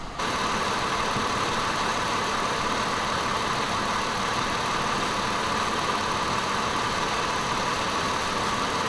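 2014 Toyota 4Runner's 4.0-litre V6 idling steadily, running with engine flush mixed into its warm oil so the flush can circulate before the oil is drained. The sound is an even, unchanging run with no revving.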